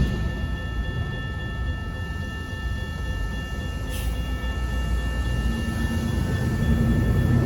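Freight train of autorack cars rolling past: a steady low rumble with faint, steady high tones above it, building toward the end.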